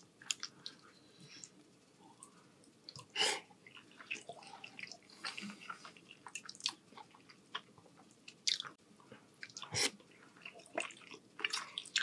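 Close-miked chewing of soft rotini pasta in meat sauce: wet, sticky mouth smacks and clicks coming irregularly, with louder ones about three seconds in and near ten seconds.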